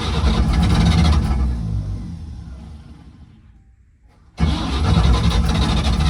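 The 1950 Chevrolet 4400's Stovebolt inline-six engine running after being primed with fuel in the carburetor bowl, then dying away over a couple of seconds. About four and a half seconds in it starts up again abruptly and keeps running steadily.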